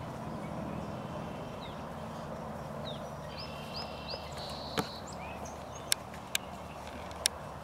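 Outdoor ambience with small birds chirping in short rising and hooked notes, then four sharp clicks in the second half, the loudest sounds.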